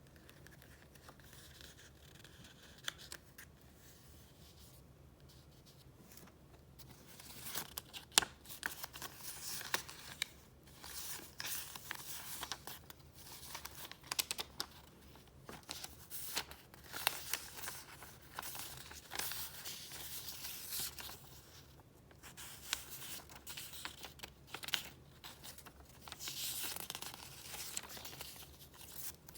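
Paper rustling and crinkling as paper items and the pages of a file are handled and flipped. It is faint for the first several seconds, then comes in many quick, crisp bursts.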